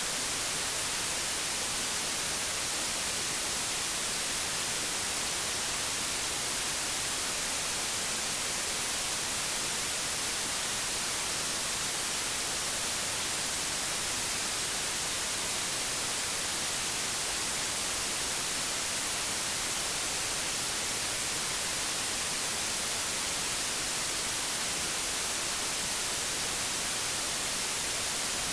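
Analogue television static: a steady, even hiss, strongest in the treble, with no change.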